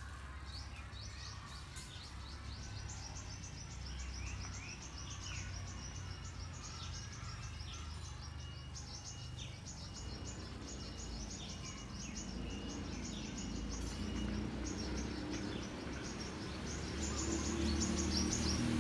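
Birds chirping in rapid, repeated short high notes with occasional falling calls, over a steady low background rumble that grows stronger in the second half.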